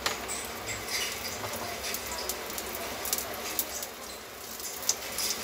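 Black-chickpea kebab patties frying in ghee in a pan, sizzling with a steady hiss and many scattered crackles as more patties are laid in.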